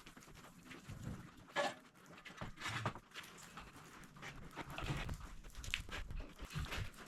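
A dog panting faintly, in quick irregular breaths, with small handling knocks.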